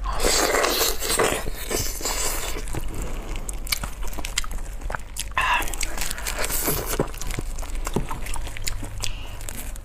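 Close-miked biting and chewing of a braised pig's trotter in sticky sauce, with wet mouth sounds and many small clicks. The loudest stretch is the bite in the first second or so.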